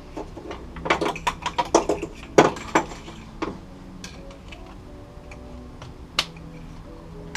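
Small metal parts and hand tools clinking and clanking: a quick run of sharp clicks about a second in, lasting a couple of seconds, then a few single clinks. Faint music plays underneath.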